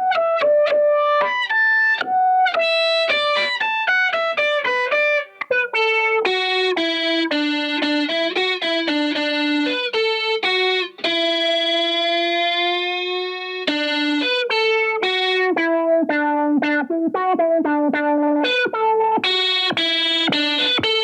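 Electric guitar played through a Boss SY-1 synthesizer pedal on a synth lead patch: a single-note melodic line of quick notes, with one long held note about halfway through that bends slightly upward.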